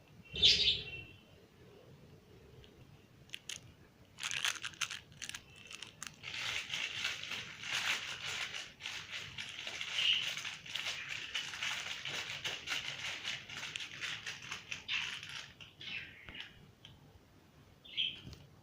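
A small pet bird gives a sharp chirp about half a second in and another near the end. In between comes a long run of rapid, scratchy rustling and clicking.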